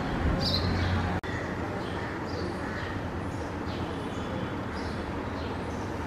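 Small birds chirping intermittently over a steady outdoor background hum. The sound breaks off abruptly about a second in and picks up again with fainter, scattered chirps.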